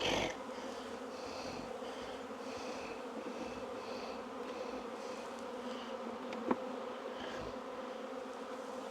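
Honey bees buzzing steadily in a large mass around an opened hive, a continuous hum, with one sharp click about six and a half seconds in.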